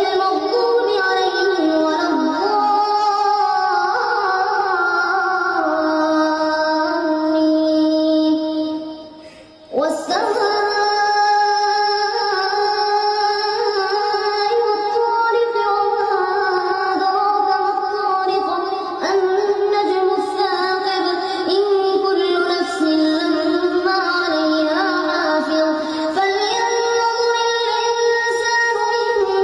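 A child's voice reciting the Quran in Arabic in a melodic, drawn-out chant (tarannum), holding long notes. The voice fades and breaks off about a third of the way in, then starts a new phrase abruptly.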